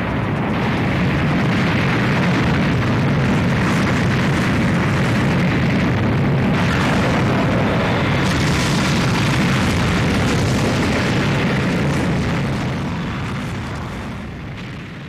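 Continuous rumbling sound effect, dense and loud, that fades away over the last three seconds or so.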